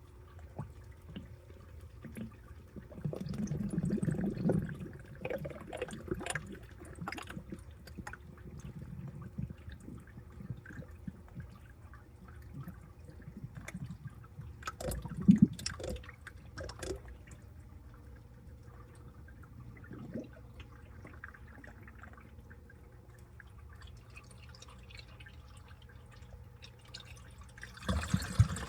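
Water and wet laundry sloshing and dripping inside a washing machine drum, with scattered splashes and a louder knock about halfway through, over a faint steady hum. Near the end, a rushing hiss of water pouring in begins.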